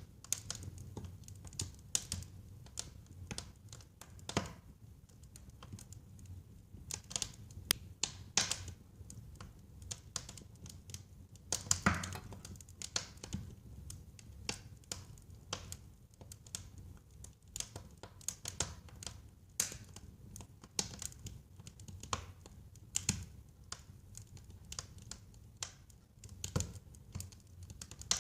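Wood fire crackling and popping in a fireplace: a constant run of irregular sharp crackles with a few louder pops, over a low rumble of the flames.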